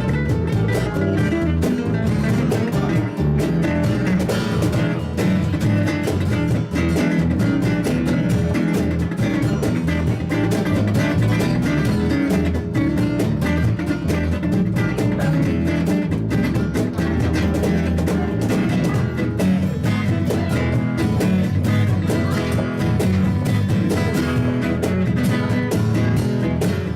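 Live band playing an instrumental passage led by guitar, with drums behind it.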